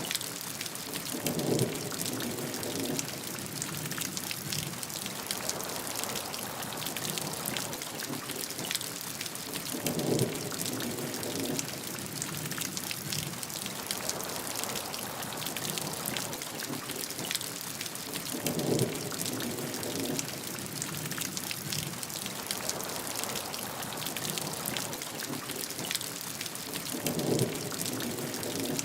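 Steady heavy rain falling, with a dense patter of close drops over an even hiss. Four times, at even spacing about eight or nine seconds apart, a short duller swell rises above it.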